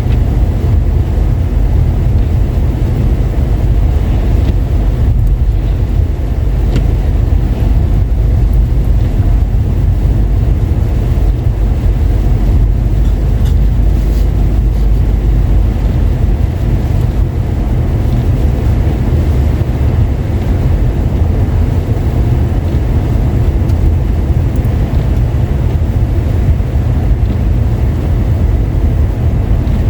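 Steady low rumble of a car on the move, heard from inside the cabin: engine and tyre noise on roads wet with rain and snow.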